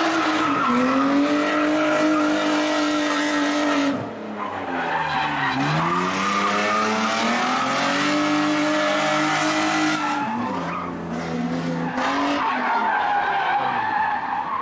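Drift car engine held at high revs while the tyres squeal and skid through a slide. The engine note drops and climbs back about five seconds in, and lifts off again near ten seconds.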